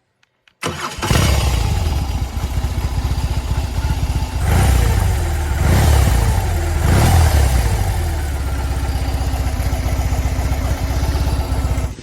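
BMW R18's 1802 cc boxer-twin engine running loud with a low, even pulse, swelling with throttle blips several times and cutting off abruptly near the end.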